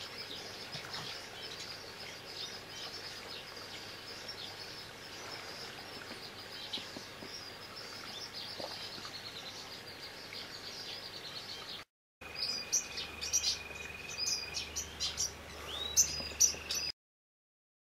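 Small birds chirping and singing: a dense run of short high chirps, then, after a brief break about twelve seconds in, louder and sparser calls that include a long, steady high note held for a couple of seconds.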